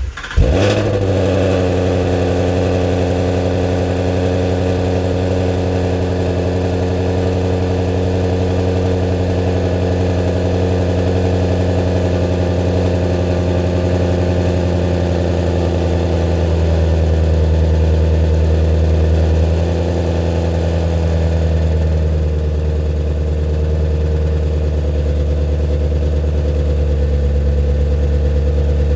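Shelby GT350's 5.2-litre flat-plane-crank V8, breathing through Kooks long-tube headers and a Kooks catted competition exhaust, starting up at the very beginning, flaring briefly, then settling into a steady idle.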